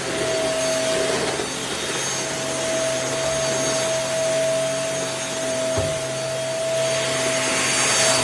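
MBYULO cordless stick vacuum running steadily: a constant high motor whine over the rush of air through the suction head.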